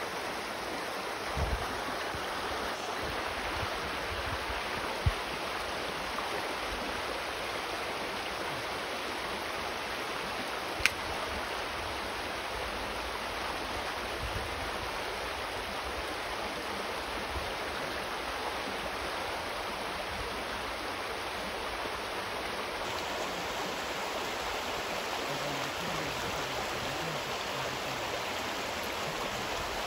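Shallow creek water rushing steadily over a rocky riffle, with two sharp clicks in the first half.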